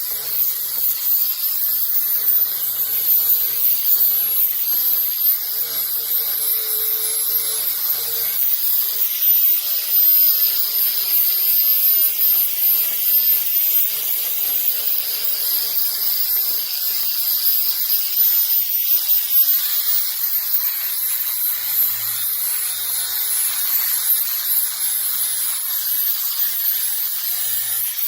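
Small high-pitched power tool running steadily on the hull's cured filler and fiberglass, its whine wavering slightly in pitch.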